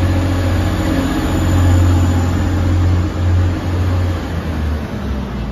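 TransPennine Express train pulling out of a platform, its engines giving a loud, steady low drone over running-gear rumble. The drone eases off about four seconds in.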